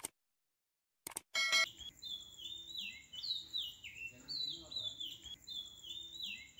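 A click and a short ringing chime about a second in, then birdsong: a bird's high whistled notes, each falling in pitch, repeated every second or so over a steady high tone.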